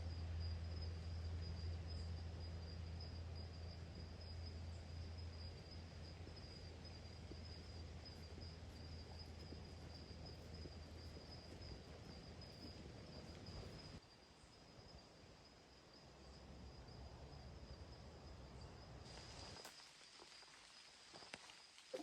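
Insects, likely crickets, chirring as one steady high-pitched tone over a soft wash of outdoor noise, with a low hum in the first half that drops away partway through.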